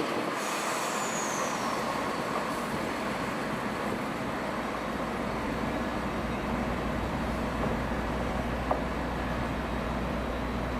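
A train's steady running rumble in the station, with a low hum that builds after the first few seconds. A faint high falling whistle sounds about a second in, and a single sharp click comes near the end.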